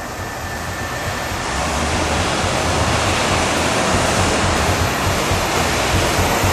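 1976 Cadillac Sedan DeVille's 500 cubic inch V8 driving by, a rushing of engine, tyre and wind noise with a low rumble that grows steadily louder as the car approaches.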